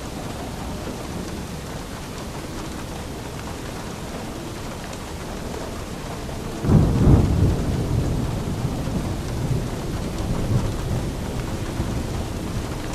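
Steady rain with a thunderclap about halfway through: a sudden deep crack that rolls on as a rumble and slowly dies away under the rain.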